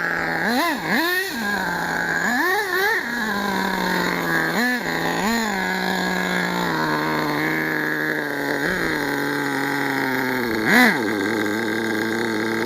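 HPI Savage nitro monster truck's two-stroke glow engine idling, blipped up in several short revs, the loudest about eleven seconds in. The owner says it is still running a bit lean.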